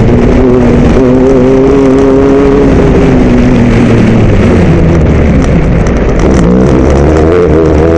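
Mitsubishi Pajero MPR13 rally-raid car's engine heard on board while driving on gravel, running at steady revs, then dropping in pitch about halfway through and picking up again near the end. A few sharp ticks come through around the middle.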